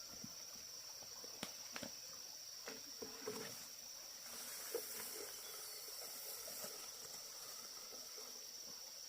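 Steady high-pitched insect drone, with a few scattered light knocks and taps.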